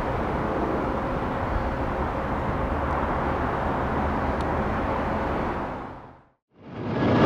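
Steady jet noise from an airliner on the runway, fading out about six seconds in. A louder jet engine noise fades in near the end.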